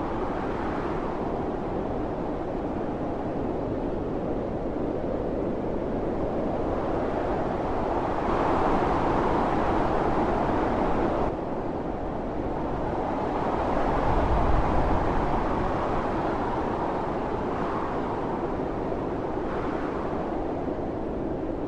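Storm wind blowing in gusts, a steady rushing that swells and eases, strongest in the middle and dropping off suddenly about halfway through.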